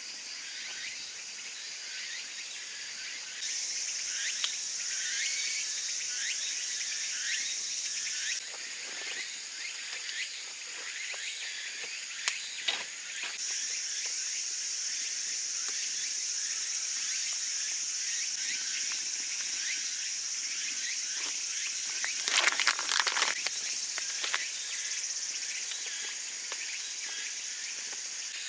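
Bacon on a skewer sizzling over a campfire: a steady hiss with scattered crackles and pops, a cluster of louder pops a little after the middle.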